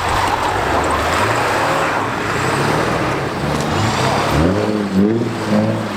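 Car engine revving hard as it drifts through deep snow, over a rushing spray of tyres and thrown snow. The revs climb in steps, with a sharp rise about four and a half seconds in.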